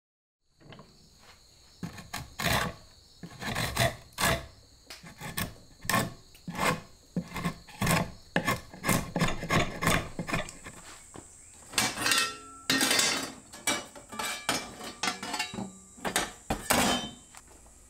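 Repeated scraping strokes of a hand tool, about one to two a second, some sharper and louder than others.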